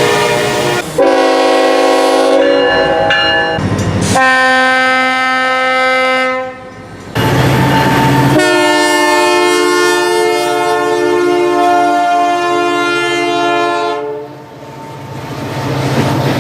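Multi-chime air horn of a GE C40-8 diesel locomotive sounding a chord in three blasts, the last one long, about seven seconds. Between the blasts and after the last, the rumble of the passing locomotive and its wheels on the rails.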